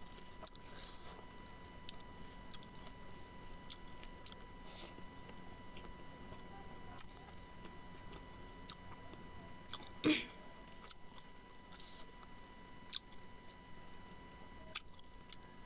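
A person chewing and biting smoked pork close to the microphone, with small wet clicks and smacks scattered throughout. One louder sharp sound comes about ten seconds in.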